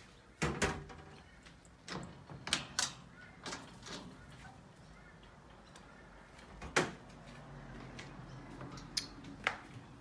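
A series of scattered sharp knocks and clicks, about ten in all, the loudest shortly after the start and about two-thirds of the way through.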